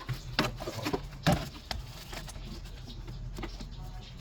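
A few light clicks and knocks in the first couple of seconds, over a low steady hum.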